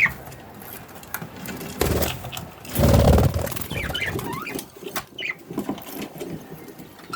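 Budgerigars chirping in short calls, with many small clicks and taps, and two louder low rustles about two and three seconds in, the second the loudest.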